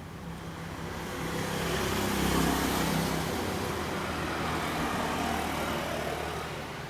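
A motor vehicle passing, its noise swelling for about two seconds and then slowly fading, over a steady low hum.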